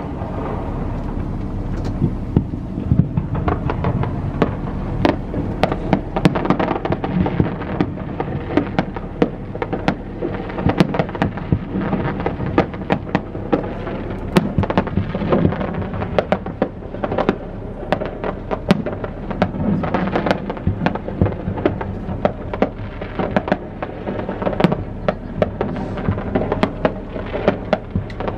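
Fireworks display firing a dense, continuous barrage: many sharp bangs a second over a steady rumble and crackle of overlapping explosions.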